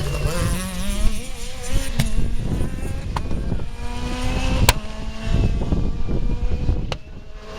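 Rally car engine revving hard as it passes, its pitch wavering and climbing through the gears over a heavy rumble, with several sharp cracks along the way.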